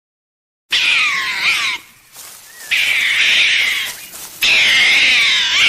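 An animal calling three times, each call about a second long, high and wavering in pitch, starting after a brief silence.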